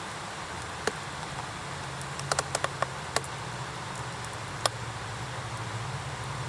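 Campfire wood crackling and popping in an iron fire pit: scattered sharp pops, several in a quick cluster a little over two seconds in, over a steady hiss and low hum.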